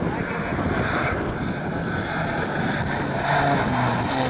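A rally car's engine running, with wind buffeting the microphone; faint engine tones show in the second half.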